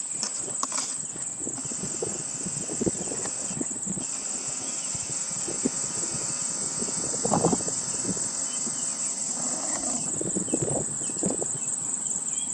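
Steady high-pitched chirring of insects, a continuous dense trill, with a few soft low knocks scattered through.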